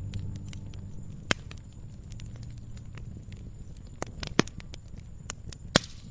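Wood fire crackling: irregular sharp pops and snaps over a low steady hiss, with a few louder snaps, the loudest near the end.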